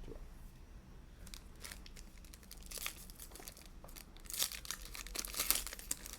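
A Donruss basketball card pack's wrapper crinkling as it is handled and torn open. Faint and sparse at first, growing denser and louder in the second half.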